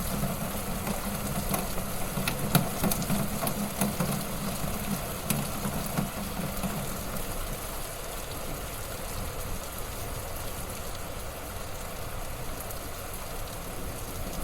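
Wood fire crackling in a fireplace: a steady hiss with scattered sharp pops, more frequent in the first half, over a low flickering rumble that fades out about halfway through.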